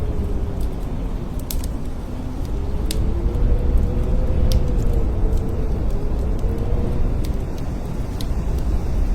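Blizzard wind: a deep steady rumble with a howling tone that slowly rises and falls, and a few scattered light ticks.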